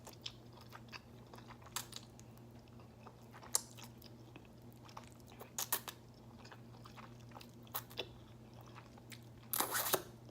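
Close-miked mouth sounds of someone eating spicy ramen noodles: soft wet chewing with scattered lip and tongue clicks, and a louder run of eating noise near the end, over a steady low hum.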